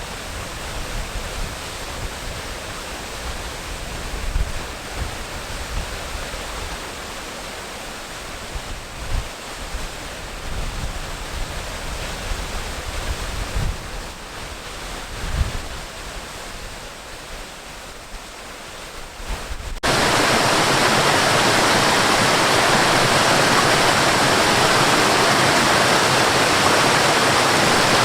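Steady rushing water with low gusts of wind buffeting the microphone; about twenty seconds in it cuts abruptly to louder, denser rushing water with no wind.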